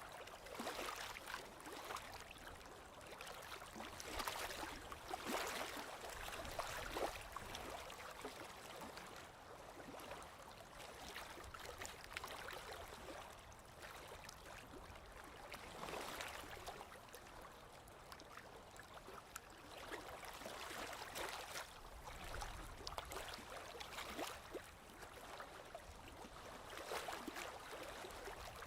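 Small lake waves lapping on the shore: soft, irregular splashes and gurgles that swell and ebb every few seconds.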